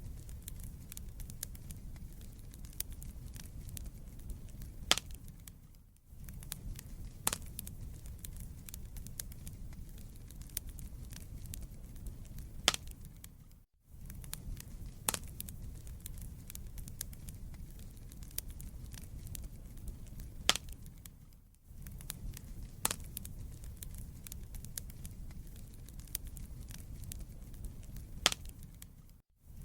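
Wood fire crackling in a fireplace: scattered sharp pops and snaps over a steady low rumble of the flames. The sound dips out for a moment about every eight seconds.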